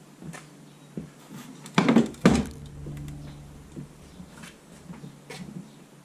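Metal clanks and light clinks from the car's front wing panel and tools being handled, with two loud knocks about two seconds in.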